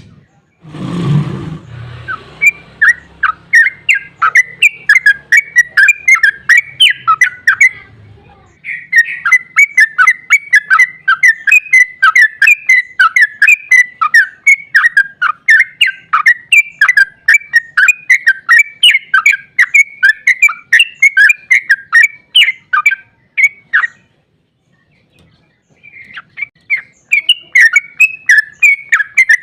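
Yellow-vented bulbul (trucukan) singing a long, fast run of chattering notes that breaks off for about two seconds near the end, then resumes. About a second in, a short low rustling thump sits under the song.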